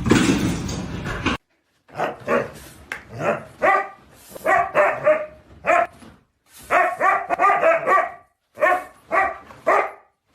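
A dog barking over and over in short, high-pitched barks, in uneven bursts of two to four. Background music cuts off about a second in, just before the barking starts.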